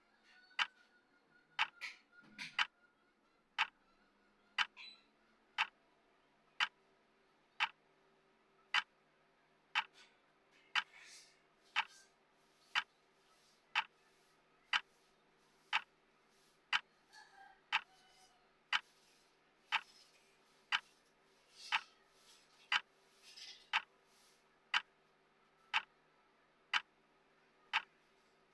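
Clock ticking, one sharp tick each second, with a faint steady hum underneath.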